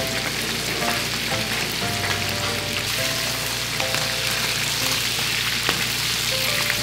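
Eel fillets sizzling steadily as they fry in hot oil in a pan, with an occasional light click of metal tongs turning them. Light background music plays over it.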